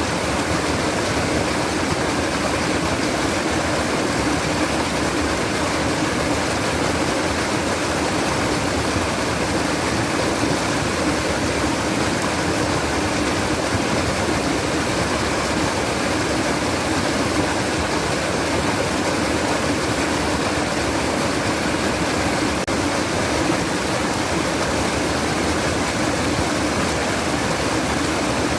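Water trickling and babbling, running steadily without a break.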